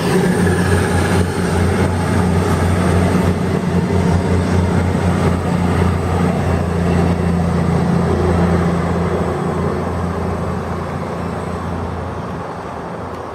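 Two coupled Class 221 Super Voyager diesel-electric trains running past, their underfloor diesel engines giving a steady low drone that fades near the end as the trains move away.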